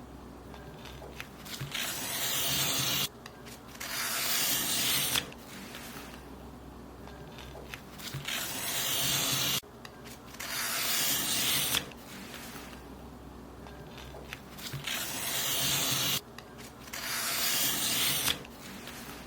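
Paper being cut, in long swishing strokes of a second or two each that stop abruptly, about six strokes with short pauses between them.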